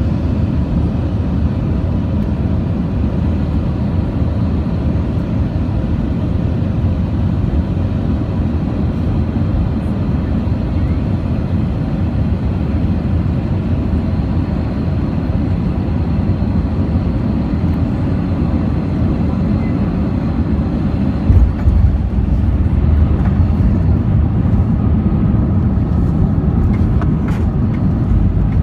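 Airbus A319 cabin noise during landing: a steady low rumble of engines and airflow, then a single thump about three-quarters of the way through as the wheels touch down. A louder rumble of the runway rollout follows.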